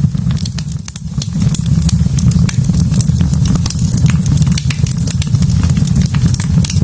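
Wood fire burning in a fireplace: many sharp crackles and pops of the burning logs over a steady low rumble.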